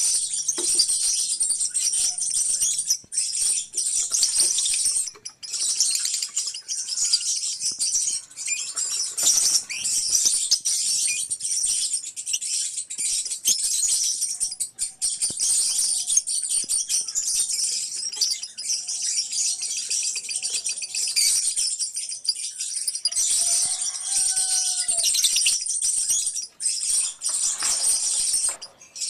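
A colony of lovebirds chattering nonstop, a dense mass of rapid, high-pitched chirps, with a few lower sliding calls a little past the middle.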